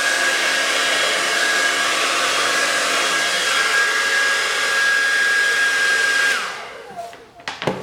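Handheld hairdryer blowing steadily with a high whine, blowing wet acrylic paint across a canvas. About six seconds in it is switched off and the whine falls away as it spins down, followed by a few light knocks near the end.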